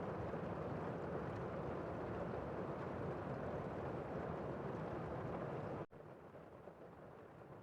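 Steady rushing background noise that drops suddenly to a fainter hiss about six seconds in.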